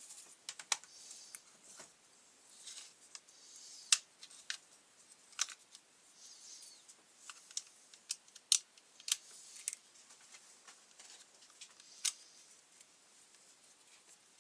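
Scattered sharp clicks and taps of hand tools being picked up and handled, with soft rustling between them; the loudest clicks come about four and eight and a half seconds in.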